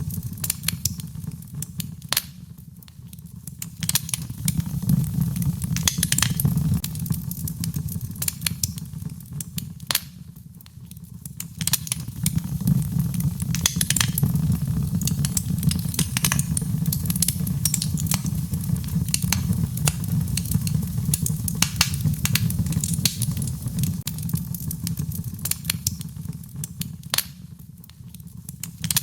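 Wood fire crackling in a fireplace: frequent sharp pops and snaps over a steady low rumble of the flames. The rumble eases a few times, about three seconds in, about ten seconds in and near the end.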